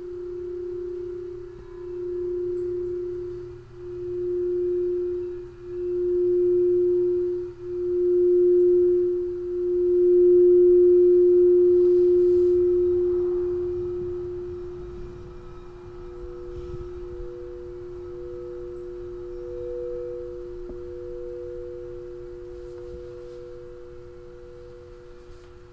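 Crystal singing bowl sounding one pure, steady tone that swells and fades about every two seconds, grows loudest about ten seconds in, then slowly dies away. About fifteen seconds in, a second, higher bowl joins softly.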